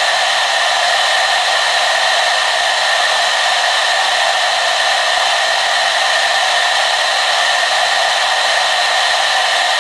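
Hair dryer running steadily: an even, unchanging rush of air with a fan whine held in several steady tones.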